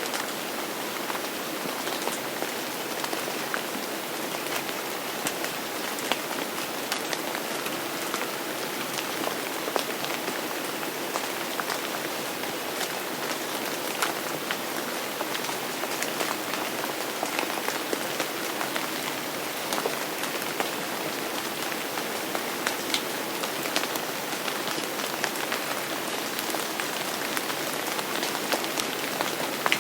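Steady rain, a continuous hiss with many sharp individual drops ticking through it.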